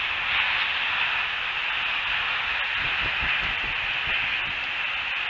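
Steady hiss from an outdoor nest-cam microphone, with faint low rumbles around the middle.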